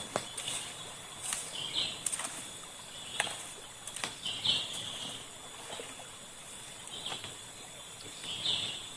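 Quiet outdoor ambience: a faint steady hiss with three short bird chirps, about two, four and a half and eight and a half seconds in, and a few scattered light clicks.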